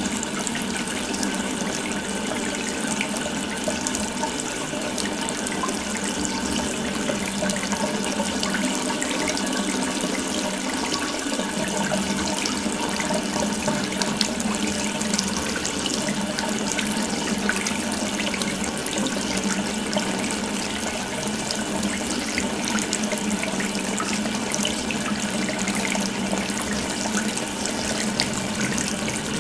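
Water running steadily from an open tap into a sink, a continuous even splashing hiss.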